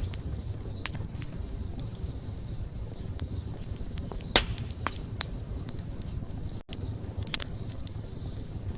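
Wood fire crackling, with scattered sharp pops over a low steady rumble of flame; the loudest pop comes a little over four seconds in. The sound cuts out for a split second about two-thirds of the way through.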